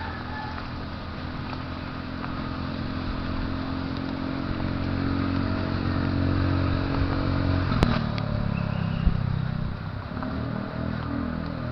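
A motorcycle engine runs at a steady pitch and grows louder. There is a sharp click about eight seconds in, after which the engine note wavers and shifts.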